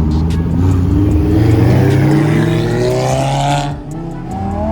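A car engine accelerating hard, its pitch rising steadily for about three and a half seconds, then dropping off suddenly as the driver lifts or shifts.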